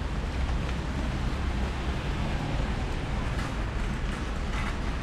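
Steady rain noise with a low rumble underneath, a little more hissing near the end.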